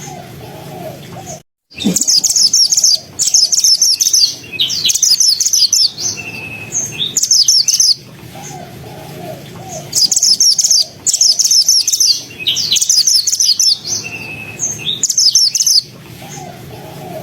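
Mantenan (black-naped monarch) singing in quick phrases of rapid, high chattering notes, each phrase about a second long with short pauses between. This is the dense, fast-firing 'gacor' song used as a tutor recording for songbirds. There is a brief cut in the sound about a second and a half in.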